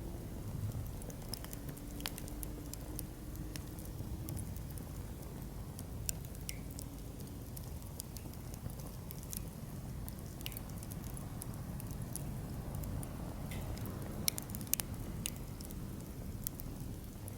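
Firewood burning in a campfire stand: scattered crackles and pops over a low rumble, with a few sharper pops about fourteen to fifteen seconds in.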